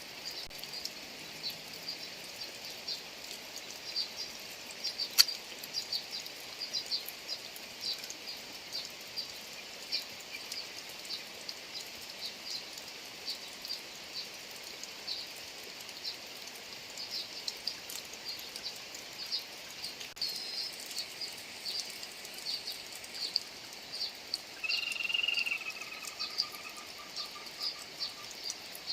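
Rain falling over rice fields, with a dense chorus of short high chirps from small animals calling in the fields. There is a sharp single click about five seconds in and one longer, slightly falling call near the end.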